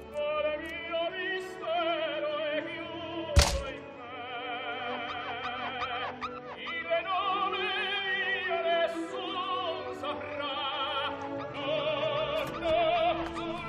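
Operatic singing with a wide vibrato over orchestral accompaniment, with one sharp loud thud about three and a half seconds in.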